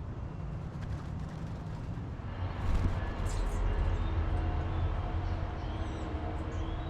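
Outdoor background rumble with a steady hum, like distant traffic, growing louder about two and a half seconds in, with a few faint, high bird chirps over it.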